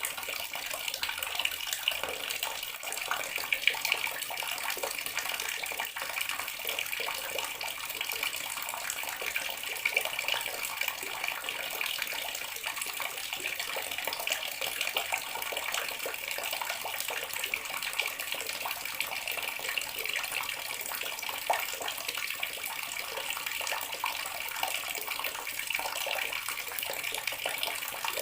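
Water running steadily from a tap into a bathroom sink, an even splashing stream.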